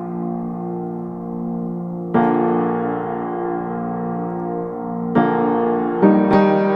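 Background piano music: slow sustained chords, with a new chord struck about two seconds in and two more near the end.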